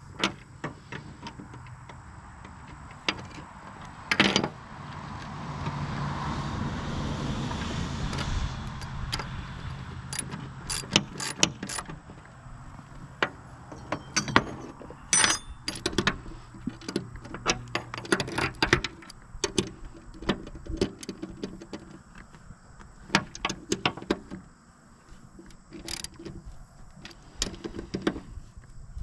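Metal hand tools, bolts and washers clinking and clanking against the mower's steel parts while a bearing is bolted on, in irregular sharp clicks with a stretch of scraping and rustling about five seconds in.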